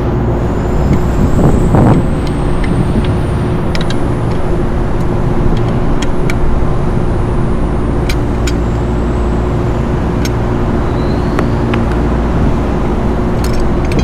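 Steady machinery drone with a constant hum, and a few sharp clicks scattered through it.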